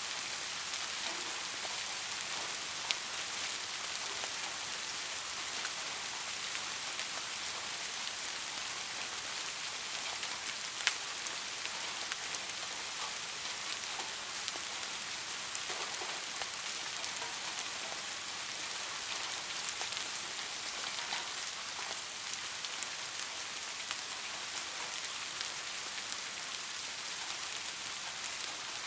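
Steady rain falling, with a dense hiss and scattered sharper drop ticks, a couple of them standing out clearly, about three seconds in and near the eleven-second mark.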